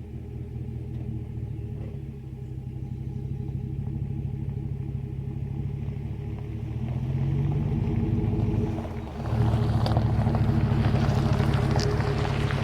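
Exhaust of a 5.3-litre EcoTec3 V8 through a Jones JT3030 turbine muffler, a steady low rumble. It swells about seven seconds in, dips briefly near nine seconds, then comes back louder with a rushing noise on top.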